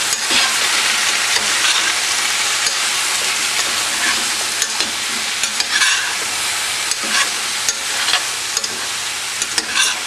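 Cubes of eggplant and potato sizzling in hot oil in a stainless steel pot while being stirred with a metal spoon: a steady frying hiss, with the spoon scraping against the pot now and then.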